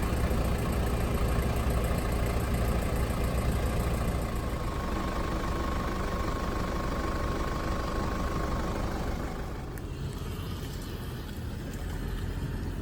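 Off-road vehicle engine running steadily with a low rumble, a faint steady high tone over it for a few seconds midway, easing slightly about ten seconds in.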